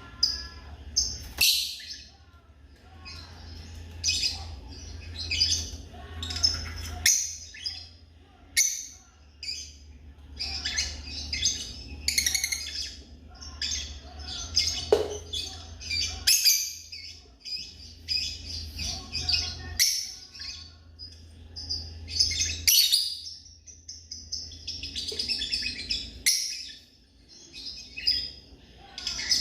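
African lovebirds chirping: a dense run of short, high, shrill chirps and calls following one another rapidly, with a low hum underneath.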